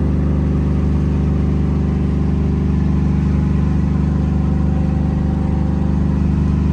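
A vehicle engine idling steadily, a low even hum that holds one pitch.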